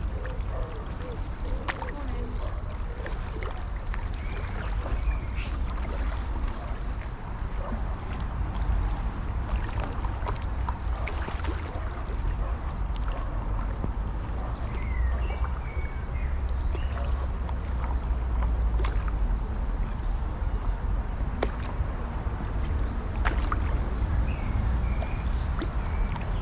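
Stand-up paddleboard paddle dipping and splashing in canal water over a steady low wind rumble on the microphone. A few short chirps and light clicks come and go.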